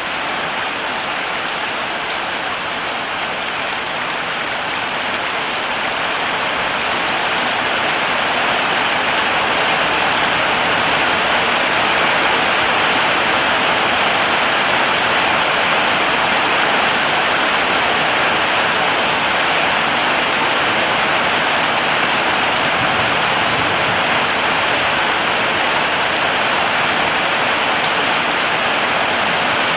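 Heavy rain falling steadily, a dense even hiss of drops that swells a little about a third of the way in.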